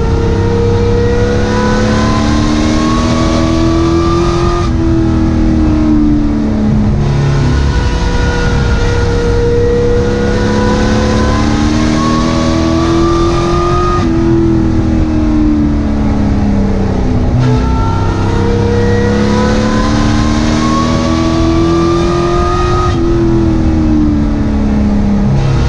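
A racing sport truck's engine heard from inside the cab at full race pace. Its pitch climbs for several seconds, then drops sharply, three times over, as it accelerates down each straight and backs off for the turns.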